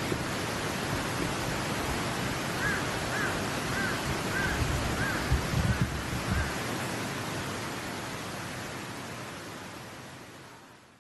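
Steady rush of a mountain stream, with a bird calling in a quick run of about seven short chirping notes through the middle. Some low rumbles of wind on the microphone come in the middle, and the sound fades out at the end.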